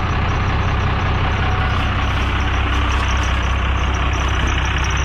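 Truck engine running steadily at an even, low pitch, without revving.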